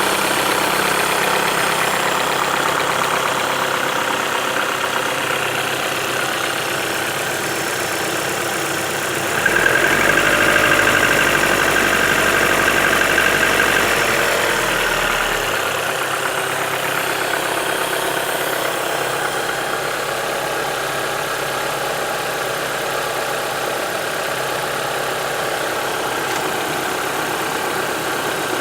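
Vehicle engine idling, its speed raised for about four seconds some ten seconds in, then settling back to idle. The engine is being checked for a knock.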